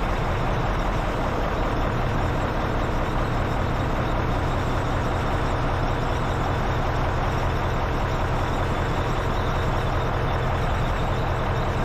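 Ford 7000 dump truck engine idling steadily, a low even hum with no change in speed.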